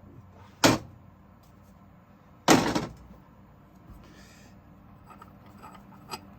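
Two hammer blows on a driver tool seating a new injector cup into a Caterpillar 3406E cylinder head, the second, a couple of seconds after the first, louder and ringing briefly.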